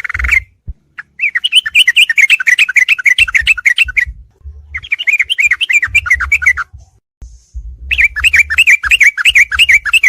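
Yellow-vented bulbul (trucukan) song: three loud, chattering phrases of about two seconds each, each a fast run of short notes, with brief pauses between them.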